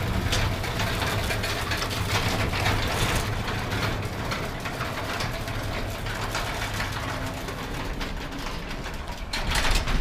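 Sectional garage door running on its belt-drive opener, the loose steel rollers rattling and clicking in the track over a steady motor hum, until it stops abruptly at the end of its travel.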